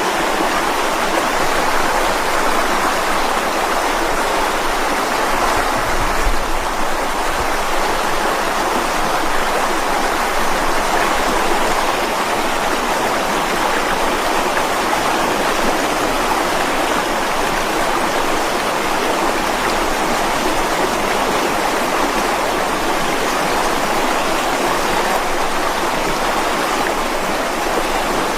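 Mountain stream flowing over rocks, a steady rushing and splashing of water.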